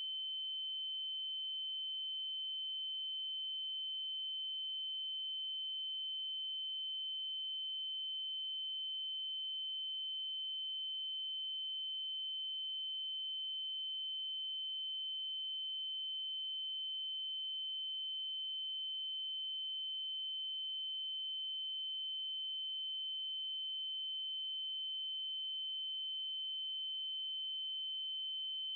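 Synthetic 3072 Hz triangle-wave tone, held steady at one pitch, with a faint overtone near 9 kHz.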